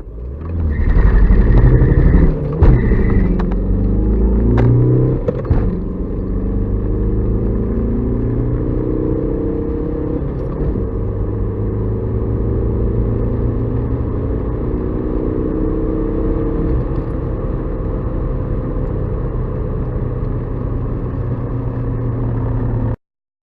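Remapped four-cylinder 1.9 TDI (AHF) turbodiesel of a 1999 VW Golf IV accelerating hard at full throttle. The engine pitch climbs and drops back at each upshift, loudest in the first few seconds. It then settles into a steady, slowly rising drone in a higher gear until the sound cuts off suddenly near the end.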